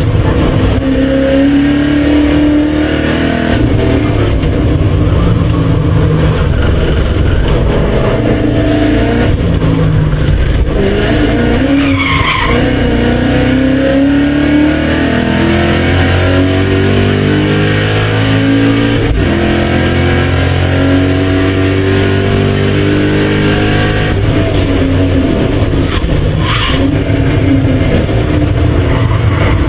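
BMW E39 M5's 4.9-litre V8 driven hard on a race track, its revs climbing through the gears and dropping under braking again and again. The tyres squeal briefly about twelve seconds in.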